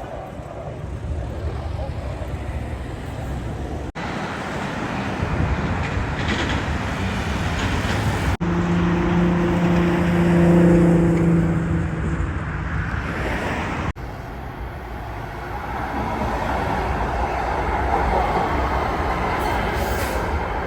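City street traffic: vehicles passing, with a steady low-pitched tone held for about four seconds in the middle.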